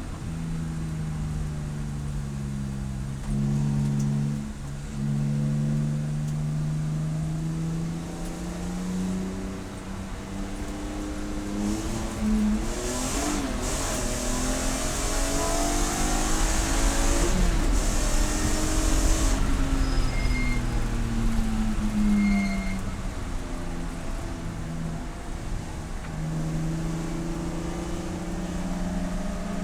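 Race car engine running hard, its pitch climbing and falling again and again as it revs up through the gears and drops back on downshifts. About halfway through, a loud rushing hiss rises over it for several seconds.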